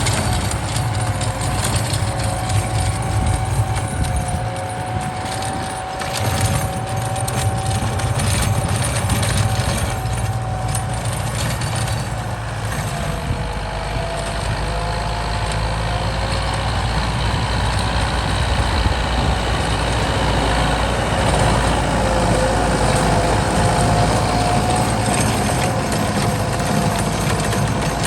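Kubota M8540 tractor's four-cylinder diesel engine running steadily under load while plowing, with a whine that drifts slightly in pitch over the engine's rumble.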